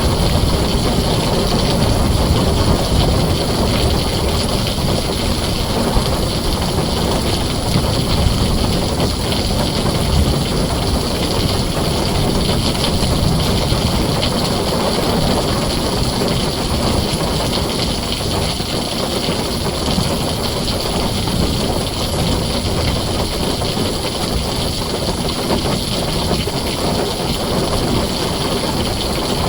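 Heavy rain drumming steadily on a tin roof, a dense even hiss over a continuous low rumble.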